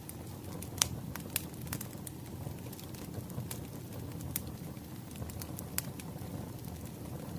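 Wood fire crackling: a steady low rumble of burning logs with sharp pops and snaps scattered through it, the loudest snap about a second in.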